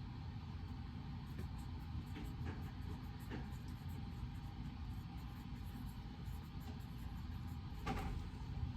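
Reading-room ambience: a steady low rumble of room noise, with a few faint light clicks about two to three seconds in and a sharper tap near the end.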